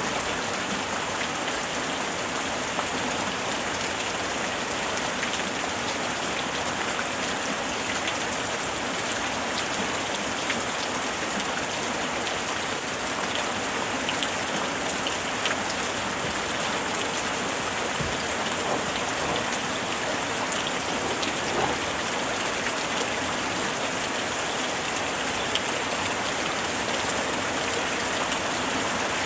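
Steady rain falling, a dense, even hiss with many individual drops ticking on surfaces.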